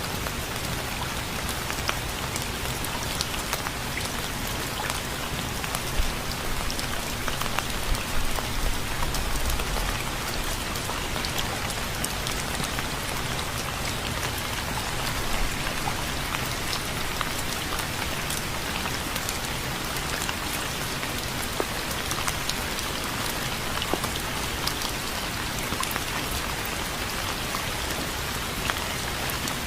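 Steady rain: an even hiss of falling rain with many separate drops ticking through it, and a few louder drops about eight to ten seconds in.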